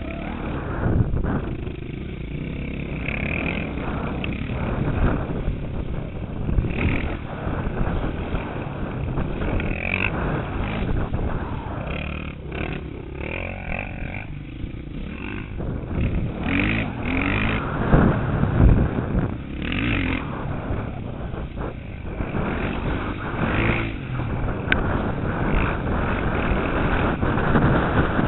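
KTM 450 SX motocross bike's single-cylinder engine revving up and down as it is ridden over a wet track, heard through a helmet-mounted camera's microphone with wind rush and knocks.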